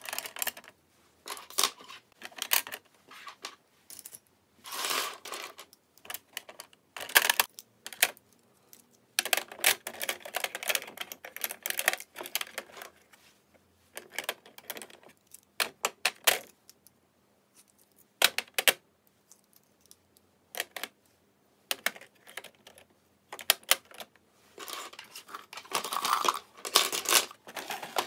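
Small hard objects clicking and clattering in irregular bursts as they are handled, with short pauses between.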